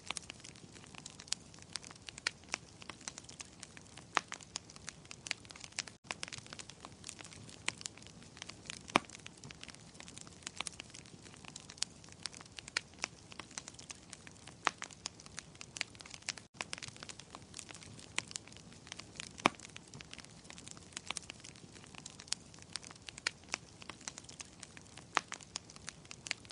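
Wood fire crackling in a fireplace: a steady low hiss with frequent sharp, irregular pops and snaps. The sound cuts out for an instant twice, about six seconds in and again past the middle.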